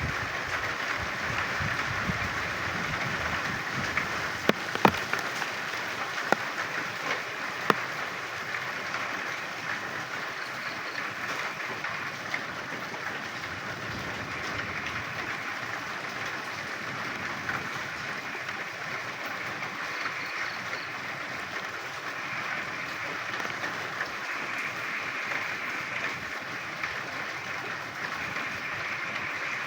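Dense chorus of frogs croaking during rain: a steady mass of overlapping calls mixed with the hiss of rainfall, with a few sharp taps in the first eight seconds.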